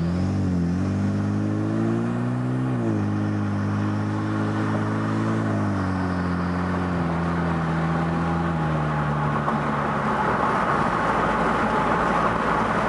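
Turbocharged 2.0-litre four-cylinder of a 2013 Hyundai Genesis Coupe through a Magnaflow 16478 cat-back exhaust, heard from the cabin with the windows down under moderate acceleration. The deep note rises, drops at an upshift about three seconds in, climbs again and eases off around six seconds. It then fades under wind and road noise by about ten seconds.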